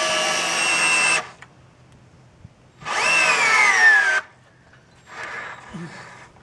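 Power drill driving screws into framing lumber in two runs. The first runs steadily for about a second. The second, about three seconds in, whines down in pitch as it bogs under load.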